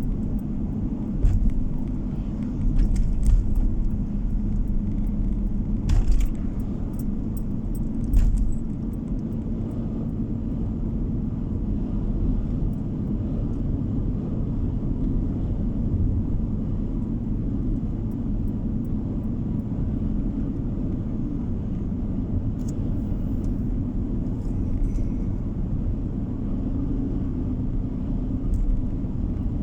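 Steady rumble of a car's engine and tyres on the road, heard from inside the moving car, with a few short knocks in the first eight seconds.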